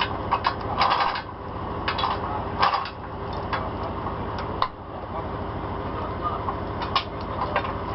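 Truck engine running steadily, with scattered short knocks and clanks over it.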